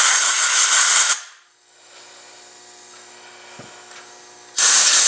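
Two blasts of compressed air blowing out a brake caliper's cleaned piston bore and seal grooves: a loud hiss for about the first second, then a shorter one near the end.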